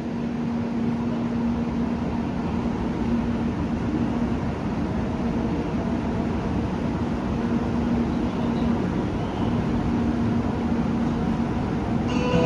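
Steady rumbling ambience of a Shinkansen station platform with a low hum that comes and goes. Near the end, the departure melody starts with bell-like chime tones.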